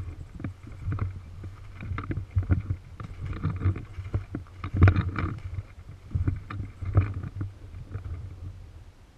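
Low rumbling noise on the microphone with irregular knocks and rustles, loudest about halfway through.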